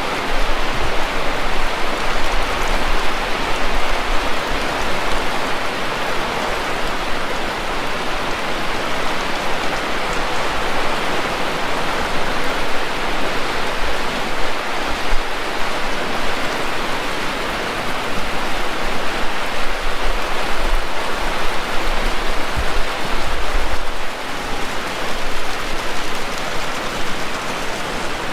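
Heavy rain falling steadily and densely, with occasional low rumbles underneath.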